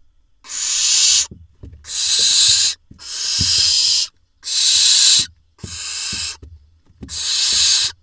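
Barn owl nestlings giving their hissing begging calls: six long hisses in a row, about one a second with short pauses between.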